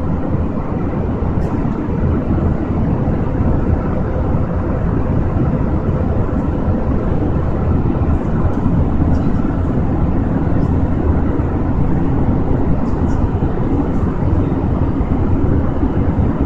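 Jet airliner cabin noise in flight: a steady, loud rush from the engines and airflow, heaviest in the low end, with a few faint clicks.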